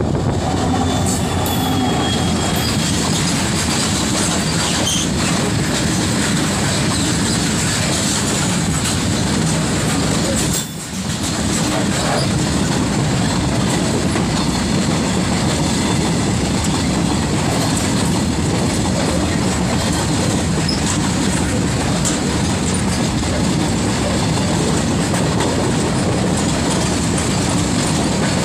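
Indian Railways freight train passing close by: a diesel locomotive followed by a long string of open-top freight wagons, wheels rumbling and clacking over the rails in a loud, steady run. There is a brief drop in loudness about eleven seconds in.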